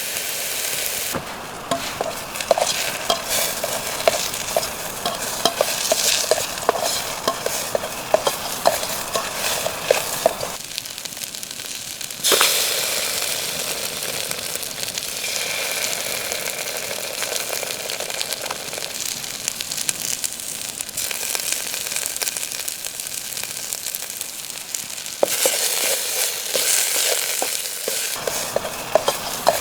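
Food sizzling in a frying pan while a spatula stirs it, with frequent small scrapes and clicks against the pan. The sizzle changes abruptly a few times.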